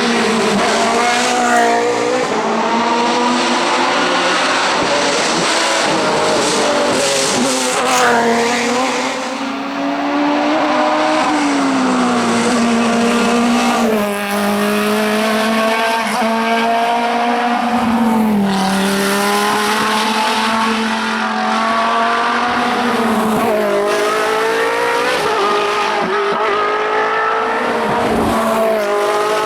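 Hill-climb race car engine running hard at high revs. Its pitch climbs through each gear and drops sharply at a gear change several times, about every few seconds.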